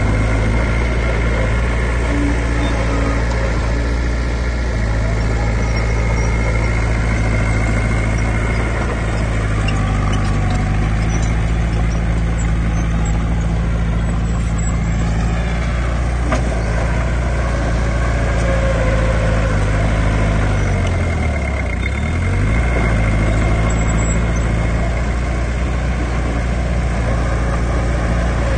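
Heavy diesel engine of earthmoving machinery running steadily, its pitch dipping briefly and coming back up about three quarters of the way through.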